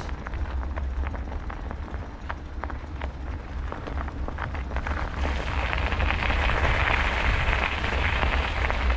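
Bicycle in motion, heard from a bike-mounted camera: wind rumbling on the microphone and tyres rolling over a rough trail with rattling clicks. About five seconds in, a louder steady hiss of tyres and rushing air sets in.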